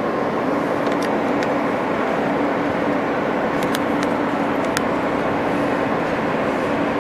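R160 subway car running between stations: a steady rumble of wheels on the rails with an even hum under it, and a few sharp clicks about one and four seconds in.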